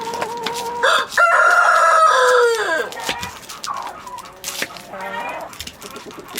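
A rooster crows once, one long call of about three seconds that drops in pitch at the end, among hens clucking.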